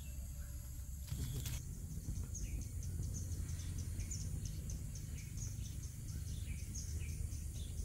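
Small birds chirping, short high chirps a few times a second at varying pitches from about two seconds in, over a low steady rumble. There is a brief knock or rustle about a second in.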